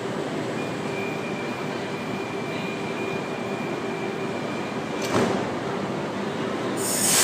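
Oscar H-set double-deck electric train at an underground platform: a steady high warning tone sounds while its doors slide shut, then a short loud burst of noise about five seconds in. A loud hiss builds near the end as the train gets ready to pull away, over the steady hum of the station.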